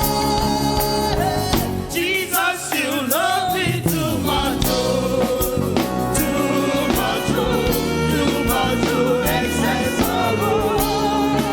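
Gospel praise-and-worship music: singers over a band, with sustained keyboard and bass notes and frequent drum strikes, and a voice sliding through a run of notes a couple of seconds in.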